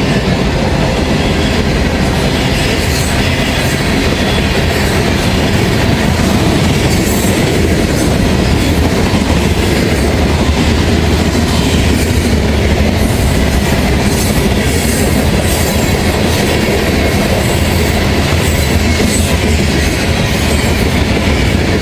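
Long freight train's cars rolling past: a steady loud rumble with wheels clacking over the rail joints.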